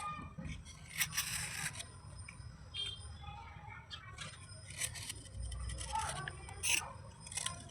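Slate pieces crunching and scraping in short, irregular bursts, the loudest about a second in and near the end.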